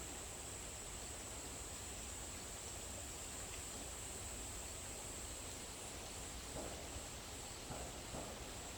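Forest ambience dominated by a steady, high-pitched drone of chirring insects, with an even background hiss. A few faint rustles come near the end.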